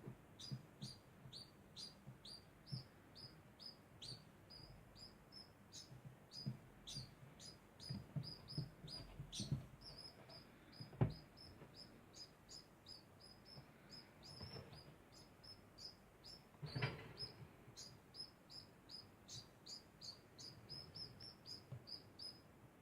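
A degu chirping without pause: short, high chirps at about three a second. Faint knocks and rustles sit beneath them, with one sharp click about halfway through.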